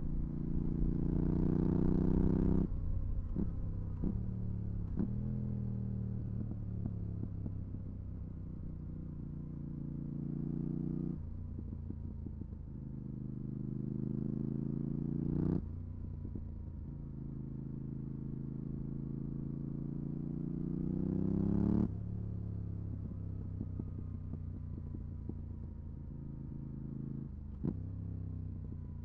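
Yamaha R7's 689 cc parallel-twin engine through a MIVV GP Pro exhaust with the dB-killer fitted, accelerating through the gears. The engine note climbs and cuts off sharply at each upshift, then falls away as the bike rolls off the throttle, with a few sharp cracks on the overrun near the start.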